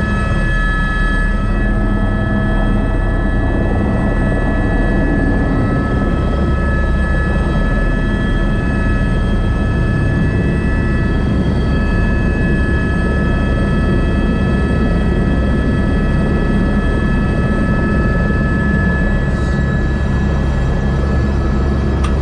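Airbus AS350 B3 (H125) helicopter's single turboshaft engine and rotor running steadily: a constant high whine of several tones over a dense low drone.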